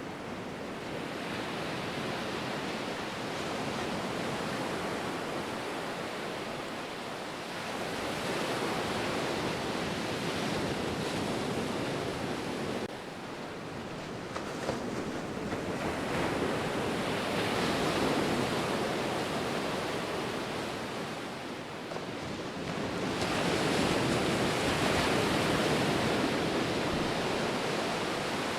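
Ocean surf washing ashore in slow surges, each wave swelling and easing over several seconds, with a louder wave about two-thirds of the way through.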